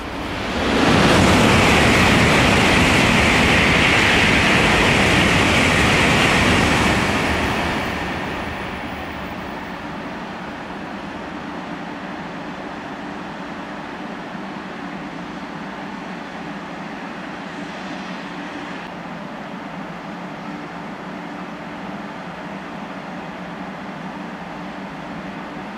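A Shinkansen train passes through at speed: a loud rush that swells about a second in, holds for about six seconds and dies away by about eight seconds in. After it, a steady lower running hum from a 500 Series Shinkansen rolling slowly along the platform.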